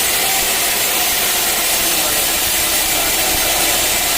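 Sawmill machinery running steadily: an engine's constant drone with a loud, even hiss over it, and faint voices in the background.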